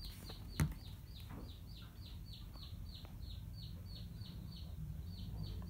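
A bird chirping steadily: a quick, even run of short falling notes, about four a second. There is a single sharp knock about half a second in.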